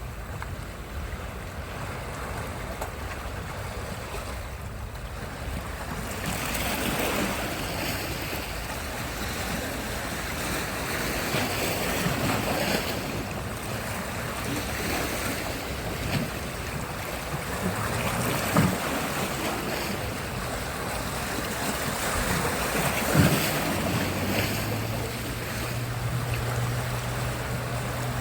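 Sea surf: waves washing in and breaking on a beach, growing louder about six seconds in, with wind buffeting the microphone. A low steady hum joins in during the last few seconds.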